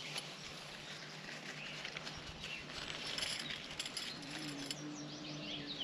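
Small birds chirping in short, quick falling notes over a steady outdoor hiss. A low steady hum comes in about four seconds in.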